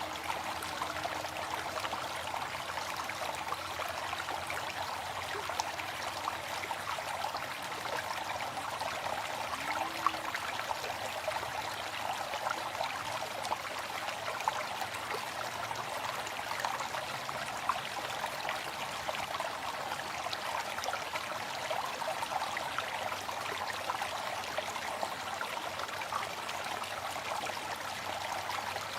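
Waterfall: a steady, even rush of falling water with fine splashing throughout.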